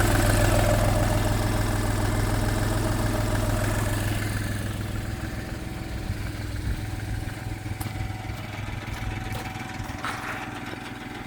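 Skoda Fabia 1.2 TDI three-cylinder common-rail diesel engine idling steadily during a running test, its sound growing gradually quieter and duller over the last several seconds.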